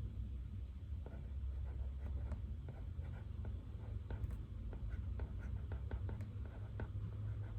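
Pen writing on paper: a run of quick, light strokes and taps starting about a second in, over a steady low hum of room noise.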